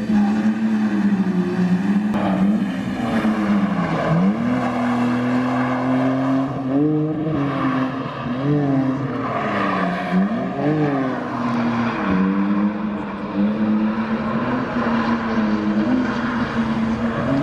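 A drift car's engine held at high revs, its pitch dipping sharply and climbing back several times as the throttle is worked through the slide.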